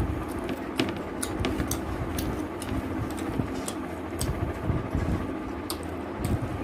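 Close-up eating sounds: chewing and mouth smacking, heard as irregular short wet clicks several times a second, over a steady low hum.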